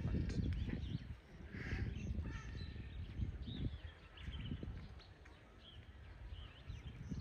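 Birds calling outdoors in scattered short chirps and whistles, over a low, uneven rumble that is louder than the birds.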